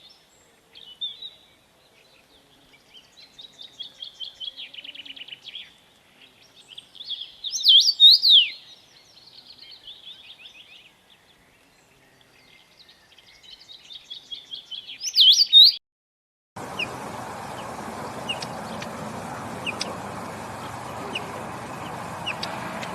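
A songbird singing a repeated phrase: a rapid run of chattering notes that grows louder and ends in loud whistled up-and-down slurs, heard twice. About 16 seconds in the song cuts off and a steady hiss of outdoor background takes over, with faint high chirps through it.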